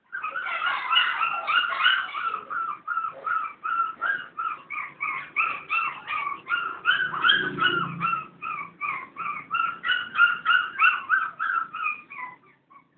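Dog whimpering in a rapid string of short, high-pitched yips, about three a second, that stops shortly before the end.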